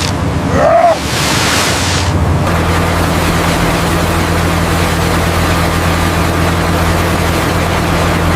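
Washes of sea water for the first couple of seconds, then a boat engine's steady low drone under the noise of the sea.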